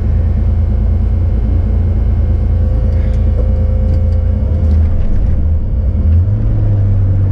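Porsche 911's engine idling steadily, heard from inside the car's cabin; its note rises slightly about six seconds in.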